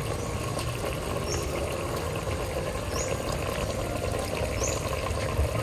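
Tinola broth simmering in a clay pot, a steady bubbling hiss. A short high chirp repeats about every second and a half over it.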